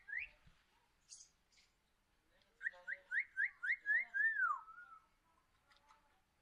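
Umbrella cockatoo making short, rising whistled chirps. One chirp comes just after the start, then a quick run of about seven at roughly four a second, ending in a longer falling note.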